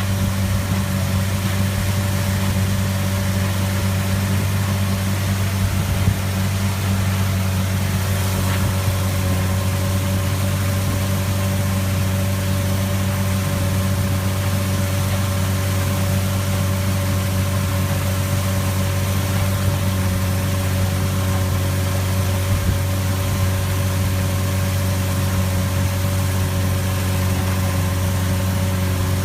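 A vehicle engine running at a steady, even pitch throughout, with one brief knock about six seconds in.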